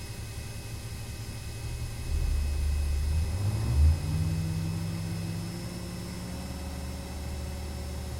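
Armoured personnel carrier's diesel engine idling, then revving up about two seconds in with a rising pitch and a brief loud surge just before four seconds, settling into a steady higher-pitched run.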